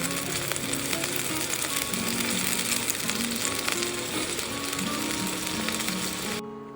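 Steady sizzling, crackling noise under soft background music of plucked notes; the sizzle cuts off abruptly near the end, leaving only the music.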